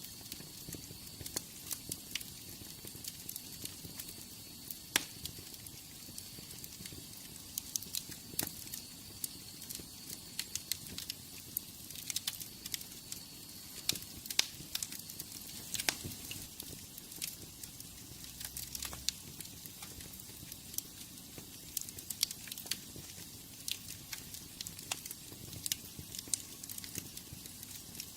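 Wood fire in a fireplace crackling: frequent irregular sharp pops and snaps over a steady soft hiss, with a faint high whistle through the first half.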